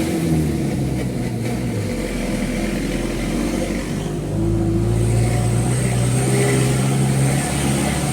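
Mitsubishi Fuso truck's diesel engine running, heard from inside the cab. The engine note drops about two seconds in, then comes back louder and steady from about four seconds in. The sound cuts off abruptly at the very end.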